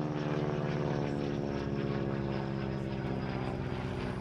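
Boeing Stearman biplane's radial engine and propeller droning in flight, the note slowly falling in pitch.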